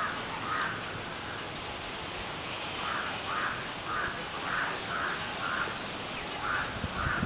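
A bird calling repeatedly in short calls, about ten across several seconds, over a steady background hiss of outdoor noise.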